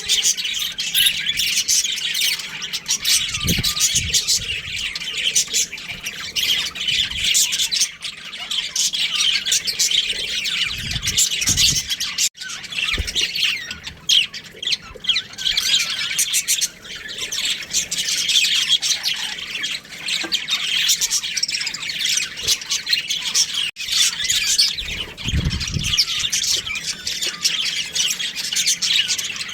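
Budgerigars chattering without a break, a dense mix of quick chirps and squawks, with a few brief low thumps.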